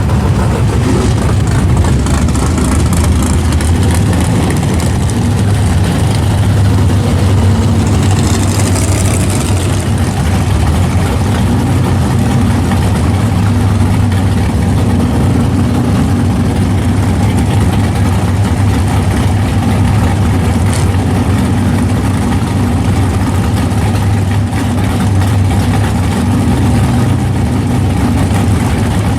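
Car engine running at a steady idle with a deep, even rumble, loud and close.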